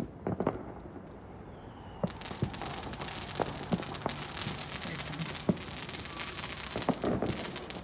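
Fireworks going off: scattered sharp bangs, with a dense crackling from about two seconds in that stops shortly before the end.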